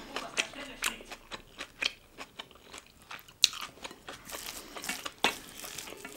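Close-miked chewing and crunching of food in the mouth: an irregular run of wet, crisp clicks, with two sharper, louder clicks about halfway through and again near the end.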